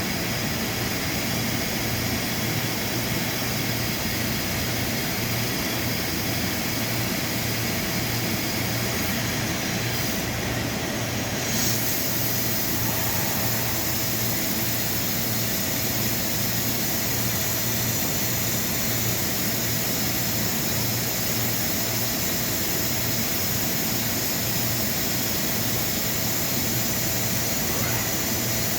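Dahlih MCV 1500 CNC vertical machining center running under power: a steady mechanical hum with several steady tones over a high hiss, which briefly shifts about ten seconds in.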